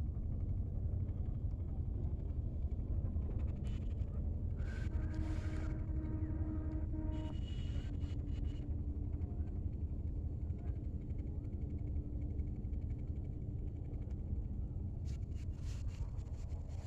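Steady low outdoor rumble, with a few faint brief tones about five to eight seconds in.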